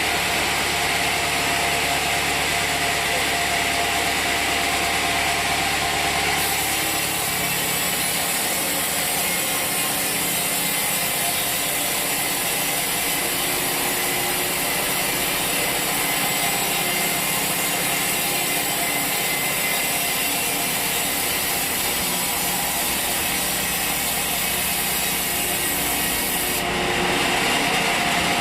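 Sawmill blade cutting lengthwise through a log over a steady machine hum. The hiss of the cut comes in about six seconds in and stops shortly before the end.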